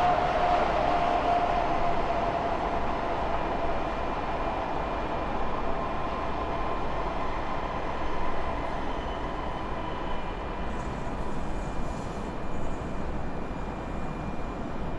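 A train running along the rails: a steady rolling noise with a faint whine that drifts slightly lower in pitch, slowly getting quieter.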